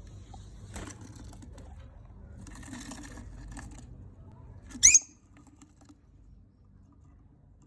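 Lovebird chicks scratching and rustling in their nest, then one loud, short high squeak that slides down in pitch about five seconds in; after it the rustling mostly stops.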